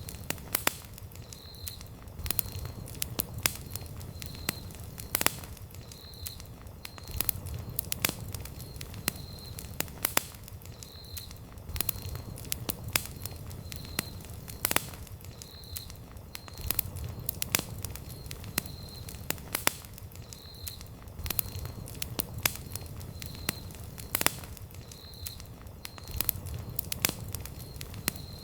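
Wood campfire burning with steady crackling: frequent sharp pops and snaps of uneven loudness over a low rumble of the flames.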